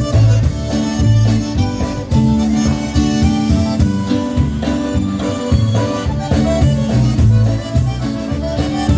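Live polka band playing an instrumental passage: accordion leading over bass and drums with a steady beat.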